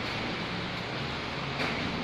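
Steady rain falling, an even hiss without a beat, with a faint short tap about one and a half seconds in.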